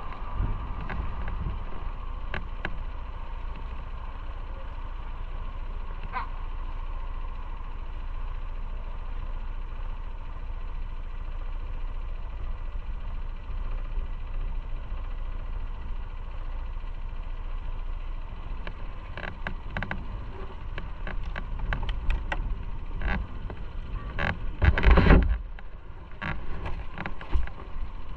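Motorcycle riding along, heard from a camera mounted on the bike or rider: a steady low rumble of engine and wind on the microphone. Near the end come a run of short knocks and a strong gust of wind buffeting.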